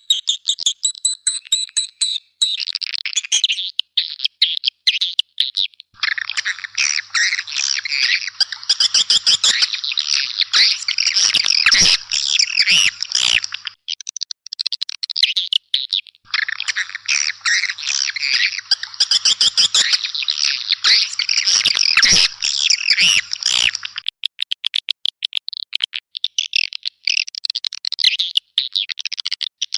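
Swiftlets twittering in a dense chorus of rapid, high chirps that thickens twice for several seconds and thins out between. This is a swiftlet calling sound of the kind played to lure the birds into nesting houses.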